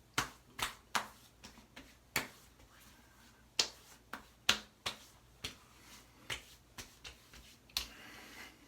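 Hands patting and slapping aftershave splash onto a freshly shaved head and face: a string of sharp, uneven slaps on skin, well over a dozen.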